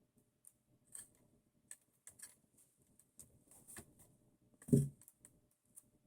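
Scattered light clicks and taps of small metal parts and tools being handled on a workbench while a pinion gear is fitted to an RC car motor. There is one louder, duller bump about three-quarters of the way through.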